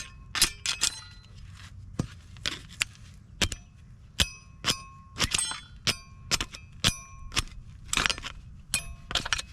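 Old metal brake-pad hardware clips being popped off a disc brake caliper bracket: a series of sharp metallic clicks and clinks, about two a second, each ringing briefly.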